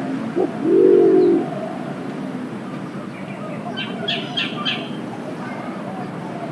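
Green imperial pigeon calling once: a short clipped note, then a loud, deep, drawn-out hoot that rises and falls, about a second in. A smaller bird chirps a few quick high notes later on.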